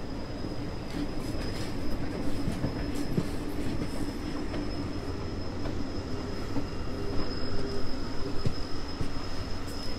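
Train running steadily: a continuous rumble with a droning hum, a thin high whine held throughout, and faint scattered clicks from the rails.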